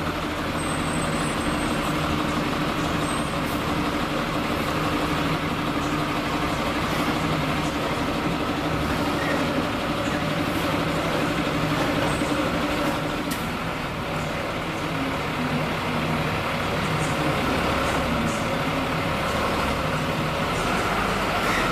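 Heavy diesel machinery running steadily, with a constant low engine hum and noise; a steady mid-pitched tone in it stops about 13 seconds in.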